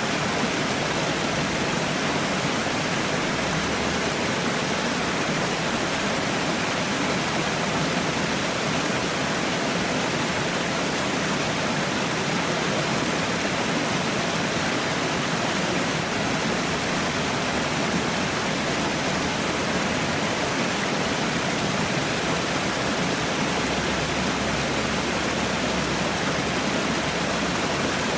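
Water falling steadily, a constant dense rush without breaks or changes.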